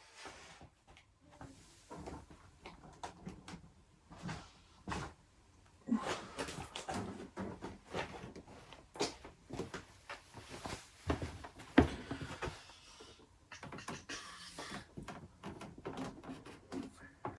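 Irregular knocks, clicks and clatter of objects being handled and set down, with one sharp knock about twelve seconds in.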